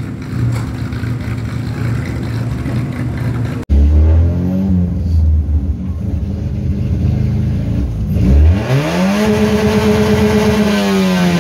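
Kadett GSI 2.0 naturally aspirated four-cylinder with a 4-into-1 header and no air filter. It runs steadily at first, then is heard from inside the cabin, where the revs rise and fall briefly. About two thirds in it revs up hard, holds high for a couple of seconds, and starts to drop near the end.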